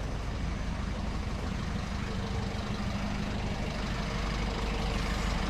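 Engine of a heavy vehicle running steadily close by in street traffic: a low rumble with a hum, slowly getting a little louder.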